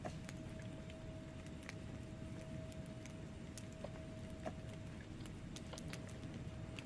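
Wood fire burning in a fireplace: irregular sharp crackles and pops over a low rumble of flames, with a faint steady tone underneath.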